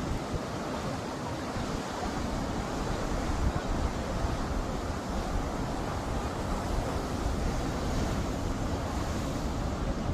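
Rough storm surf breaking and washing in a steady rush, with wind buffeting the microphone.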